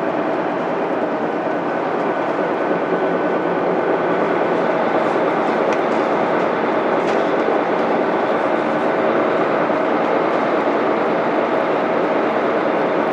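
Cabin sound of a Mitsubishi Fuso Aerostar city bus under way, its 12.9-litre 6M70 diesel engine running steadily under tyre and road noise. A few faint ticks come about halfway through.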